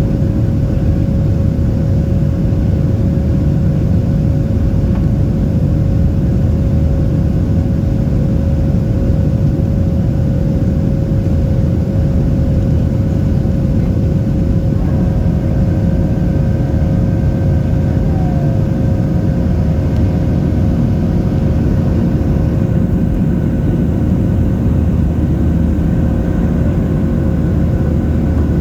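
Boeing 737-700 cabin noise in the climb after takeoff: the CFM56-7B turbofans give a steady, even roar with a constant hum. About halfway through, a few higher steady tones join in.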